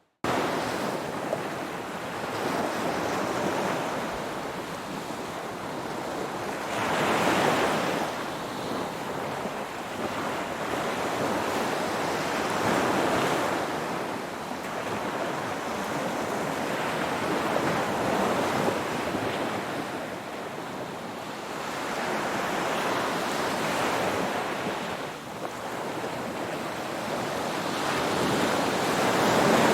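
Ocean surf: waves breaking and washing up the shore as a continuous hiss that swells in surges every five to six seconds.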